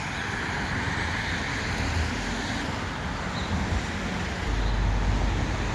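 Steady road traffic noise from cars passing, with a low rumble growing stronger about four and a half seconds in.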